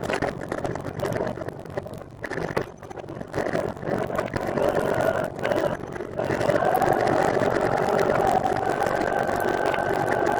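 Steady whirring road noise of a recumbent trike being ridden, its tyres and drivetrain running continuously. It dips quieter a couple of seconds in and comes back fuller about six seconds in.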